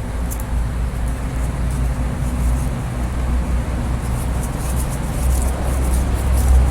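A steady low engine or motor rumble, growing louder toward the end.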